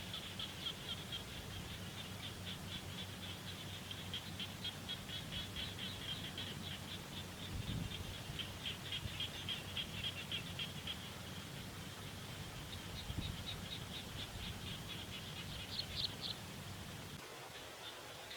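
Rapid trains of high, evenly spaced chirping pulses from a small animal, coming in bursts several seconds long. Underneath is a steady low hum that stops near the end.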